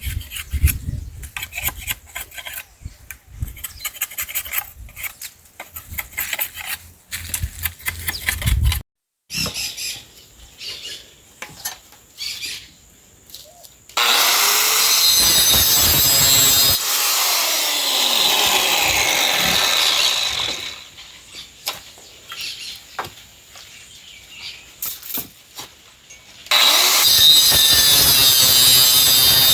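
Rhythmic rasping strokes on wood, then a power tool working wood in two long runs, the first winding down with a falling pitch.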